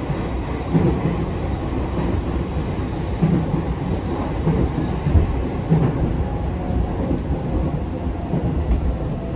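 Interior running noise of a JR East E233-5000 series electric train: a steady low rumble of wheels on rail with a few heavier thumps, as the train nears its next station.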